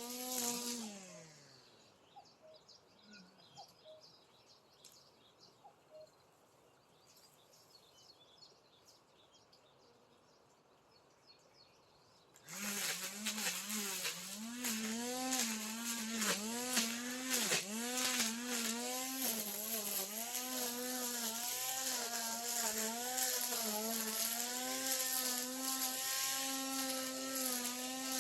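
Brush cutter engine winding down and stopping about a second in, then quiet for about ten seconds. Near the middle it starts again suddenly and runs at high speed to the end, its pitch wavering up and down.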